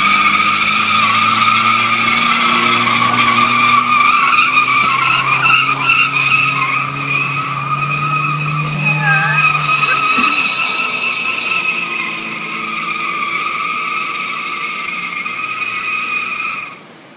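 Volvo engine labouring under load during a pull, with a loud, steady high-pitched squeal over it, which cuts off suddenly near the end.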